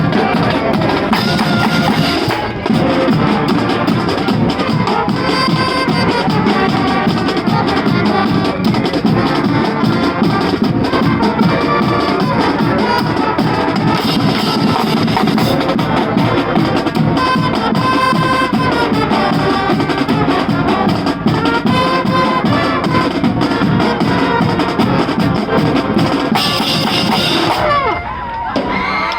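High school marching band playing a tune over a driving drumline beat, with bass drum and snare, and brass holding notes above it. The music stops just before the end as the first shouts of the crowd come in.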